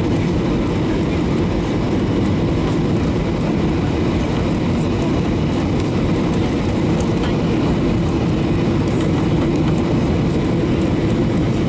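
Steady cabin roar inside a Boeing 737-800 in flight: the CFM56 engines and the rush of air over the fuselage, a constant deep rumble heard from a window seat.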